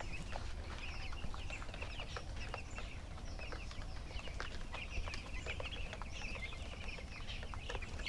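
A large flock of 13-day-old broiler chicks peeping, many short high chirps overlapping continuously, over a steady low rumble.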